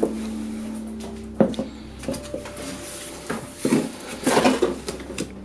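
Knocks and clatter from handling the fridge's packaging: a sharp knock about a second and a half in, then a cluster of knocks and rustles between three and four and a half seconds in, over a steady low hum.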